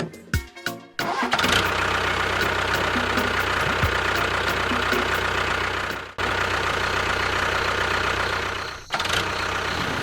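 After a few short musical notes, an engine starts up about a second in and runs steadily, cutting out briefly twice.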